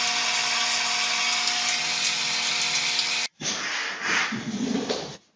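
A small motor running steadily with a whine over a hiss, like a power tool, cut off abruptly about three seconds in; then short, noisy sounds.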